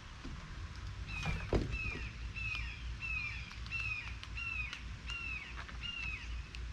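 A songbird singing a series of about eight clear downslurred whistled notes, evenly spaced at about one and a half a second, over a steady low rumble. A single knock sounds about one and a half seconds in.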